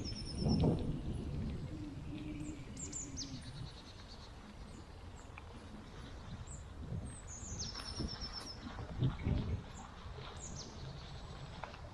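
Woodland birds calling, with short high chirps and two quick trills of repeated notes, one at the start and one about eight seconds in. Under them are low rumbling knocks, loudest about half a second in and again around nine seconds.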